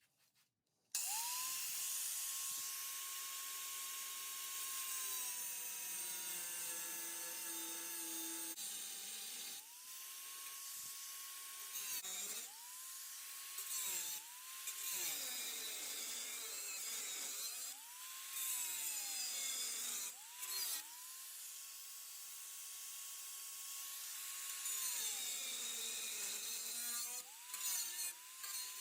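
Handheld power cutting tool cutting through an early Ford Bronco's sheet-metal floor pan. It spins up to a steady high whine, and the pitch sags as it bites into the metal. It is switched on and off again and again, winding down each time.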